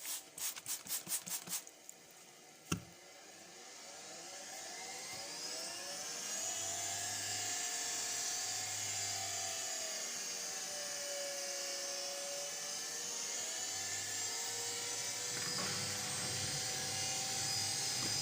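Washing machine drum motor, freshly cleaned and refurbished, spinning up the drum: a rising whine that climbs, dips and climbs again with the drum's speed, with no bearing rumble. It is preceded by a quick run of clicks and a single knock.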